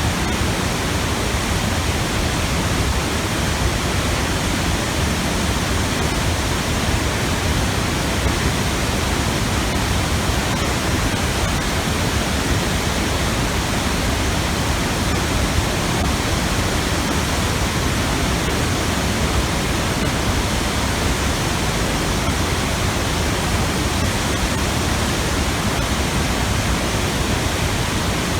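A 30-metre waterfall plunging into a pool, an even, unbroken rush of water with a strong low rumble.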